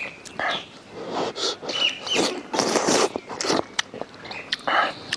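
Close-up eating sounds of dumplings being chewed: wet mouth noises in several irregular loud bursts, the loudest about two to three seconds in.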